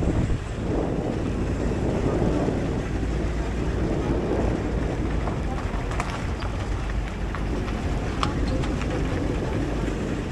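Steady rumble of a moving vehicle, with wind buffeting the microphone and a few light clicks and rattles.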